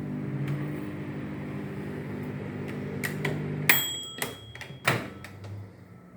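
A microwave oven running with a steady hum, which stops a little past halfway with a sharp click and a brief beep, followed by knocks and a door clunk about a second later.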